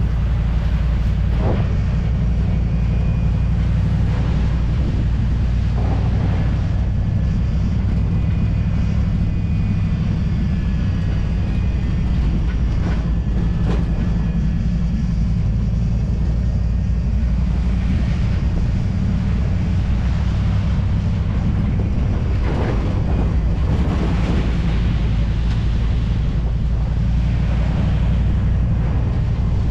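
Old Ford F250 pickup driving along, heard from the open truck bed: a steady low engine and road rumble, with gusts of wind on the microphone now and then.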